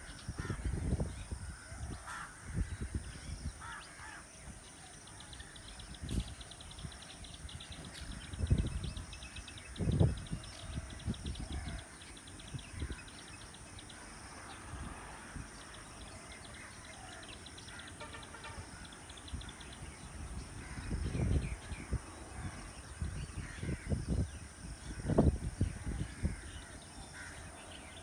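Several birds calling, with a fast ticking trill through much of the first half and a steady high hiss behind. Low thumps or rumbles come now and then and are louder than the calls.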